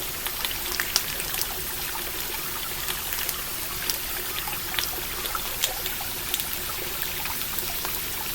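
Stream flowing steadily, with a campfire crackling over it in scattered sharp pops.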